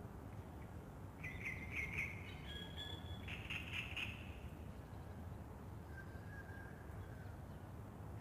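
Small birds singing: a short run of bright chirping phrases from about one to four seconds in, then a faint thin whistle, over a steady low background rumble.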